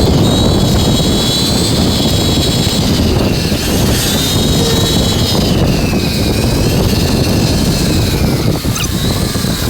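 Electric dirt bike's motor whining at speed, its pitch drifting gently up and down, over heavy wind rush on the microphone.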